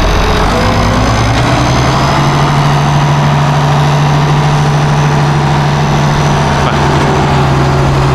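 Tractor engine running under load, its pitch rising about a second in and then holding steady, as it tows the Case 930 in gear to try to turn that tractor's engine over. The 930's engine does not turn: it is seized.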